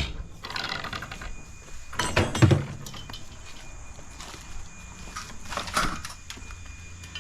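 Scrap metal being handled and loaded: a few clanks and knocks, the loudest pair about two seconds in and another near the end.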